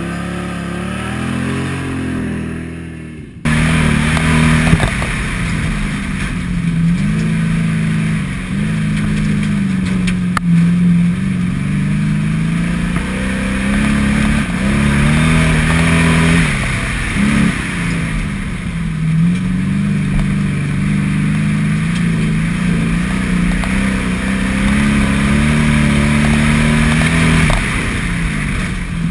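Stock car engine running hard and revving up and down as the car is driven across a rough field. For the first three seconds or so it is heard from outside, then it cuts suddenly to a louder, close sound from inside the cockpit, rising and falling in pitch again and again as the driver accelerates and lets off.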